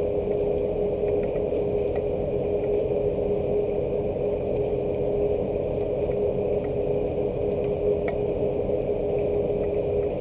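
Steady rain, heard as an even low rushing noise with faint scattered drip ticks, over a constant one-pitch machine hum.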